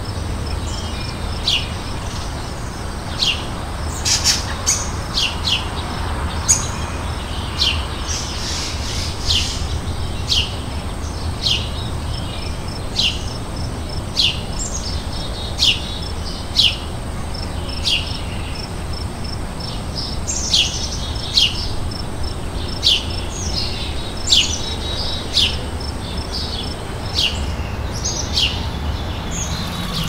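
A small songbird calling over and over with short, sharp, high chirps, about one a second, over a steady low background rumble.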